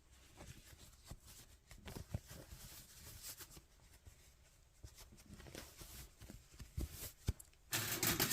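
Faint rustling and light handling noises as cotton work gloves are pulled on, with a few soft taps and a louder rustle near the end.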